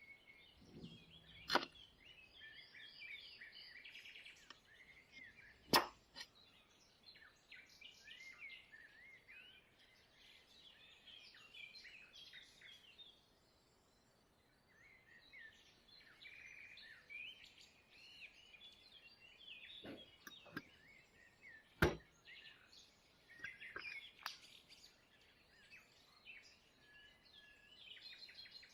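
Faint birdsong, many small birds chirping and twittering, with a lull about halfway through. Three sharp clicks stand out, near the start, about six seconds in and after about twenty-two seconds.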